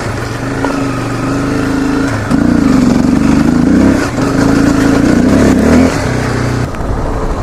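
Dirt bike engine running under throttle, revving up for a couple of seconds about a third of the way in, then settling back and easing off near the end.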